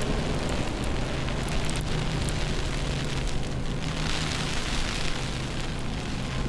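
Steady city street noise: a low engine hum under a continuous hiss, the hiss growing brighter for a moment about four seconds in.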